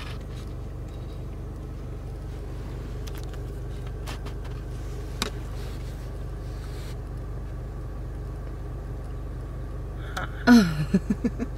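Car engine idling, heard from inside the cabin as a steady low hum. About ten seconds in, a person's loud drawn-out exclamation drops steeply in pitch and is followed by a few short, wavering vocal sounds.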